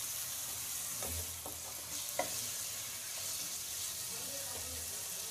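Raw chicken pieces frying in oil and tomato-onion masala in a nonstick pan, with a steady sizzle, while a wooden spatula stirs them with a few soft scrapes and taps.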